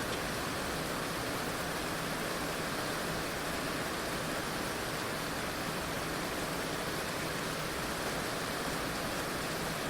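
Heavy rain falling steadily, a dense, even hiss with no single drops standing out.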